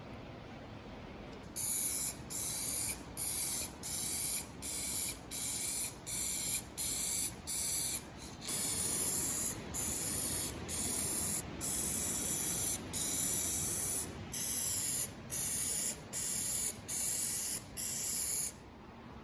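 Spray hissing in about twenty short bursts, roughly one a second with brief pauses between, as a coating is sprayed on in quick passes. The bursts begin a couple of seconds in and stop shortly before the end.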